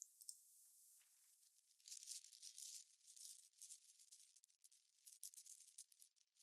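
Faint gusty wind, a rattly hiss that swells and fades in gusts from about a second in.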